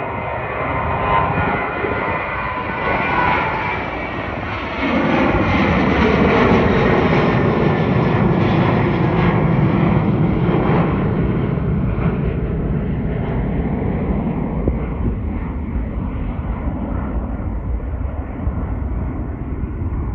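Boeing 737-800 airliner's CFM56-7B jet engines at takeoff power as it passes: a high whine at first, then a loud, deep roar that swells sharply about five seconds in and slowly fades.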